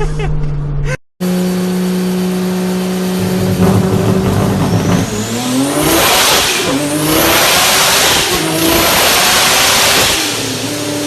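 Turbocharged 2JZ straight-six held steady, then accelerating hard: the engine pitch climbs in several pulls broken by short gear-change dips, with a rising turbo whine over it, and falls away as the throttle comes off about ten seconds in.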